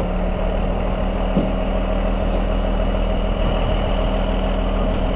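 Engine running steadily to power the landoll trailer's hydraulics while the bed tilts down, a constant drone with a steady whine over it.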